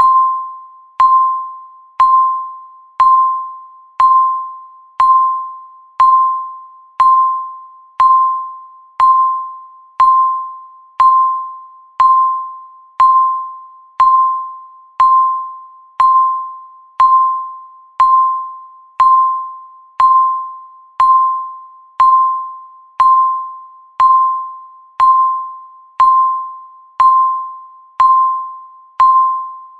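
Countdown timer's tick sound: one short, bell-like ping every second, each fading away before the next.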